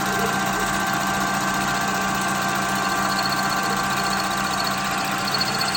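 Machine tool's electric motor running steadily with a constant hum, a faint high whine joining about halfway through.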